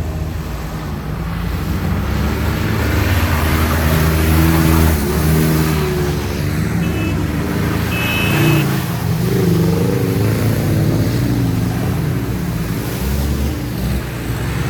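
Off-road 4x4's engine revving under load, its pitch rising and falling repeatedly as the throttle is worked.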